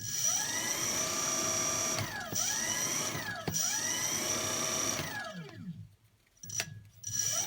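Car alternator rewired as a brushless motor, fed at about 28 volts, spinning up with a rising whine and running at high speed over a thin steady high-pitched tone. It twice dips briefly in speed and recovers, winds down about five seconds in, then starts spinning up again near the end.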